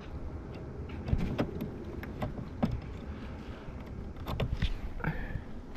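6.7 Power Stroke diesel V8 idling steadily, with scattered small plastic clicks and knocks as a fuse is worked out of the under-hood fuse box.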